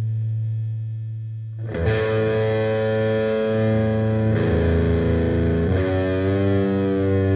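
Heavily distorted electric guitar striking a loud chord about a second and a half in and letting it ring, then moving to two more held chords. Before the first chord there is only a steady low hum.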